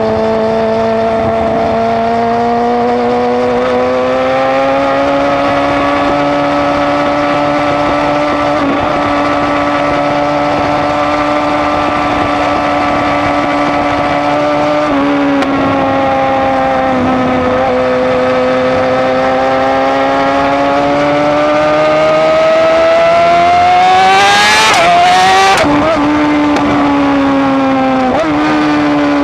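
BMW S1000RR inline-four sport bike engine through an Austin Racing exhaust, ridden at high revs with the note holding steady and swelling gently. The pitch steps down once about halfway through. Near the end it climbs hard and then drops sharply twice as the bike shifts gears with its quickshifter.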